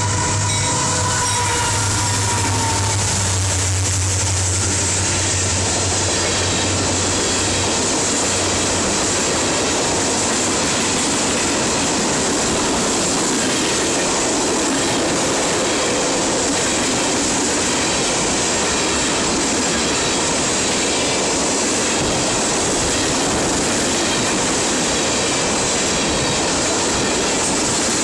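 Three-unit diesel-hauled tank car train passing close by at speed. The locomotives go by first: a steady horn tone ends about three seconds in, and the low engine drone fades within about nine seconds. After that comes the continuous rumble and clatter of the tank cars' steel wheels on the rails.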